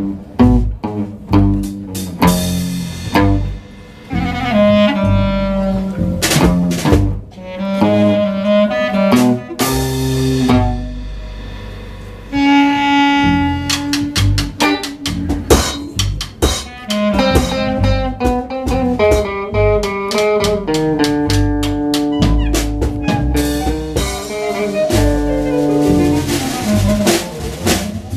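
Small live band playing an instrumental passage: a held melody line over double bass and drum kit, thinning out for a couple of seconds around the middle before the full band comes back in.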